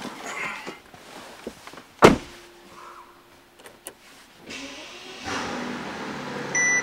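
The 2007 Mercedes-Benz S65 AMG's 6-litre twin-turbo V12 is started: after a sharp knock about two seconds in, the starter cranks and the engine fires up a little past four seconds, settling into a steady idle. A warning chime starts beeping near the end.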